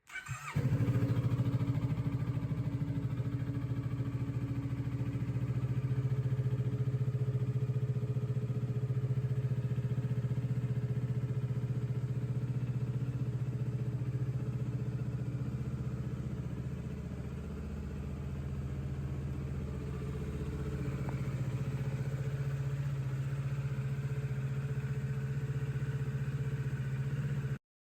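Kawasaki Ninja 650's 649cc parallel-twin engine idling steadily, coming in about half a second in. It dips slightly in level about two-thirds of the way through and cuts off suddenly near the end.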